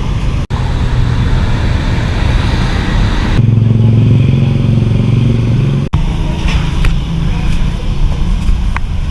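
Roadside traffic: vehicle engines running close by, with a louder steady engine hum in the middle stretch, and the sound breaking off abruptly twice.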